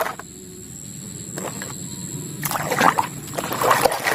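A click, then about halfway in water starts spattering and trickling over a muddy toy fire engine as it is rinsed clean.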